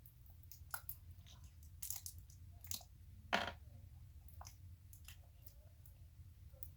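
Irregular small clicks and crackles of objects being handled, with one louder snap about three and a half seconds in.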